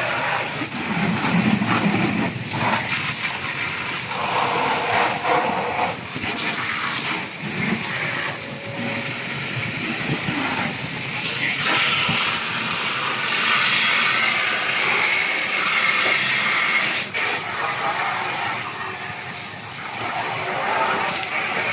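Running water hissing and splashing, with uneven handling noises over it, as parts are washed.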